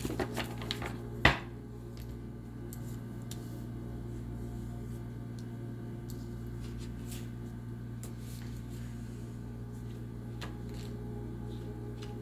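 Tarot cards being handled, a few light rustling clicks and then one sharp tap about a second in, over a steady low electrical hum.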